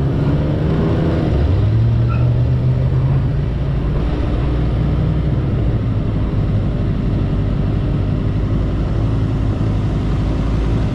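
Motorcycle engine running under way, picking up revs about a second in and then holding a fairly steady pace.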